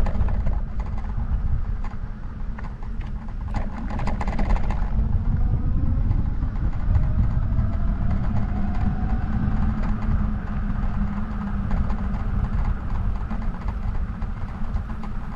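Steady low rumble of wind buffeting and road noise from a moving bike, with a few sharp rattling clicks about four seconds in.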